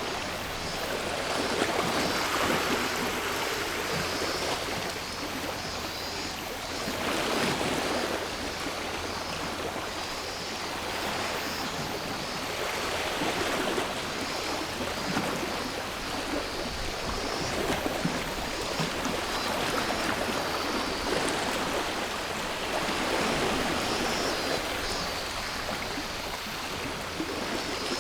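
Sea waves washing onto a shore, each swell rising and falling about every five seconds, with a steady high cicada chorus running underneath.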